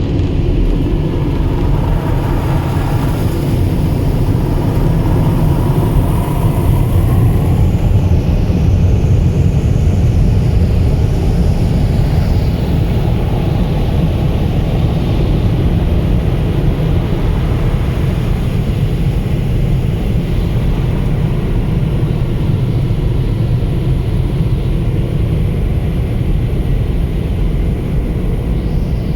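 Steady, loud rumbling wash of noise from an automatic car wash heard from inside the car, the machinery and water running on without a break.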